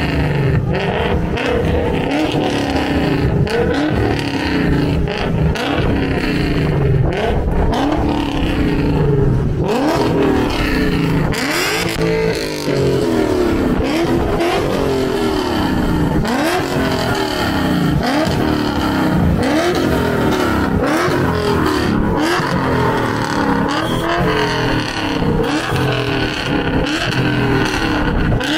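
Car engine revved hard on and off the throttle, its pitch climbing and falling back over and over, as from a drift car working through a slide.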